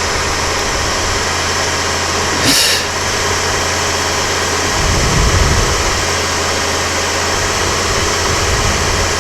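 Dodge Ram 1500 Magnum engine idling steadily just after a hard cold start, having sat unused for a year. A brief hiss comes about two and a half seconds in.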